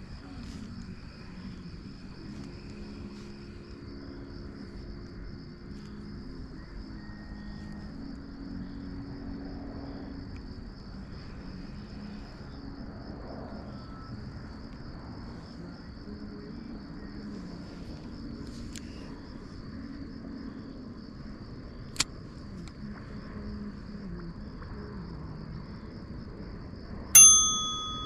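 A steady high-pitched buzz over a low hum, with a sharp click about three-quarters of the way through, then, near the end, a single loud metallic ding that rings for about a second.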